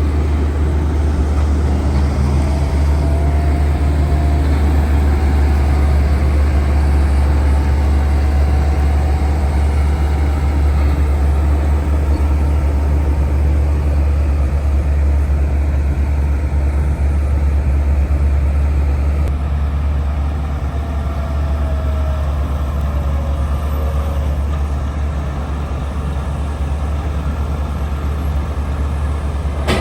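Diesel engine of heavy harvest machinery, a combine or a large tractor, running steadily with a deep, even drone, a little quieter about two-thirds of the way through.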